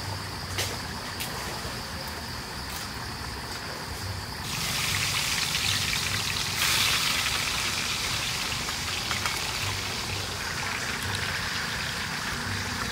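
Food frying in hot oil: a dense sizzling hiss starts about four and a half seconds in and grows louder a couple of seconds later. Before it there is a steady high tone with a few sharp clicks.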